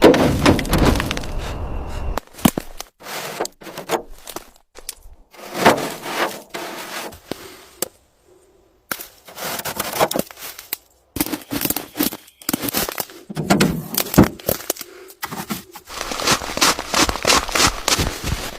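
Irregular knocks, clicks and clatter, with stretches of scraping or rustling noise between them and two brief drops to silence.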